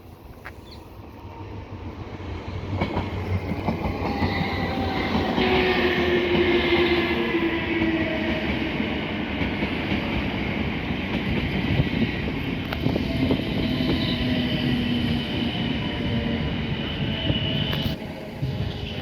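A train moving along the platform at close range. It builds over the first few seconds, then runs loud with wheel clatter and several thin whining and squealing tones, some slowly falling in pitch, before dropping off suddenly near the end.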